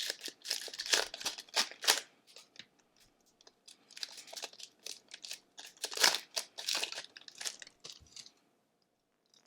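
A hockey card pack wrapper being torn open and crinkled in two spells of rustling bursts, one in the first two seconds and one from about four seconds in. The sound stops about eight seconds in.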